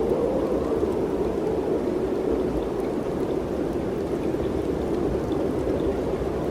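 Steady mountain wind rushing in an even, unbroken stream of noise, with no gusts or lulls.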